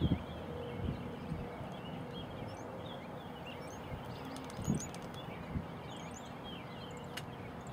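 Birds chirping and trilling outdoors over a steady low rumble of background noise, with a couple of soft thumps in the second half.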